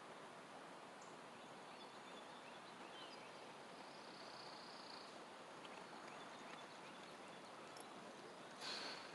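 Near silence: faint outdoor ambience with a faint high animal call about four seconds in and a few tiny chirps, then a brief rustle near the end.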